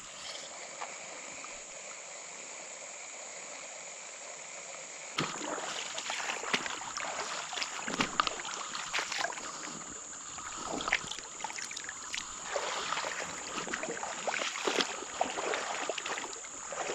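Shallow creek water splashing and sloshing irregularly, as from wading, starting abruptly about five seconds in after a steady soft water hiss. A constant high insect drone runs underneath.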